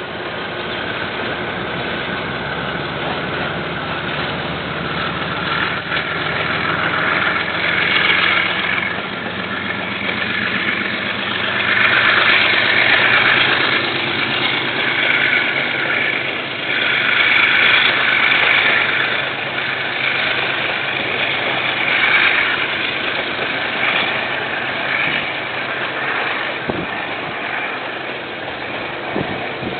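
Diesel-electric locomotive engine running steadily as a KiwiRail train passes, with wheel-on-rail noise that swells and fades several times.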